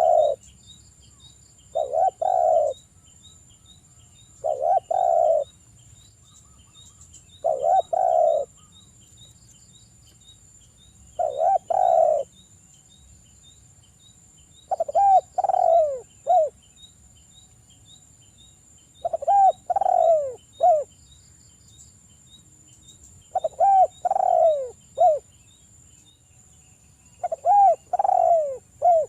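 Spotted dove (derkuku) cooing: a short phrase of low coos about every three to four seconds, with the later phrases made of three gliding notes. Under it runs a faint, steady, fast ticking of insects.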